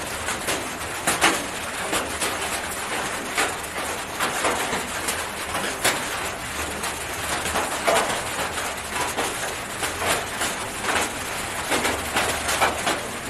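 Short bird calls, repeated irregularly about a second or more apart.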